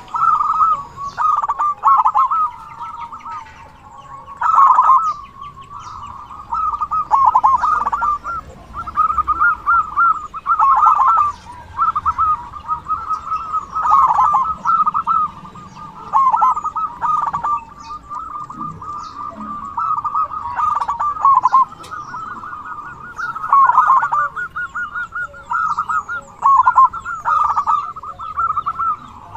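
Zebra dove (perkutut) cooing: rolling, trilled coo phrases repeated every one to two seconds.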